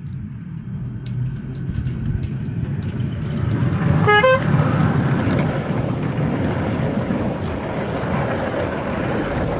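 Miniature railway train running along the 7 1/4" gauge track with a low rumble that grows louder, and a short horn toot about four seconds in.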